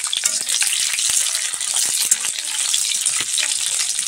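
Sliced onion and garlic sizzling in hot oil in a kadhai while being sautéed, with a flat metal spatula scraping and clinking against the pan as it stirs them.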